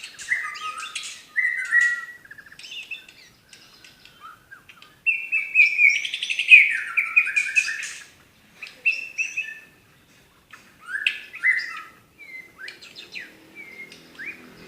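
White-rumped shama (murai batu) singing a varied song of whistled phrases, rapid trills and sharp notes, broken by short pauses, with its loudest, densest burst about five to eight seconds in.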